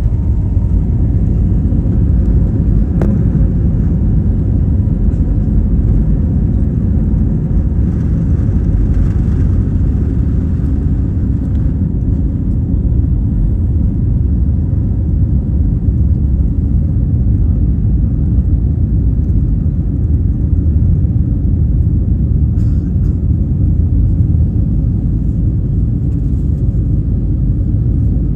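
Airbus A330-300 airliner cabin noise during the departure: a loud, steady low rumble of the jet engines and airflow heard from inside the cabin.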